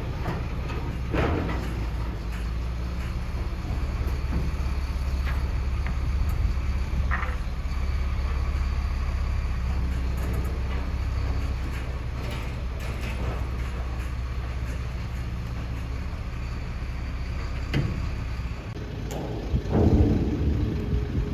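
A heavy vehicle's engine running steadily with a low hum, with a few knocks along the way. About three-quarters of the way in the hum drops away and is followed by a louder clatter and knocking.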